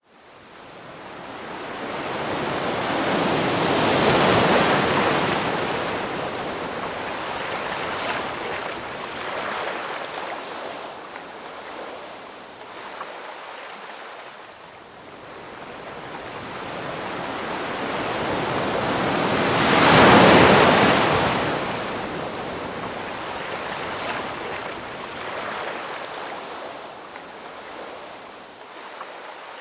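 Ocean waves breaking and washing on the shore, with two bigger waves cresting about four seconds in and again about two-thirds of the way through, and a steadier wash between them.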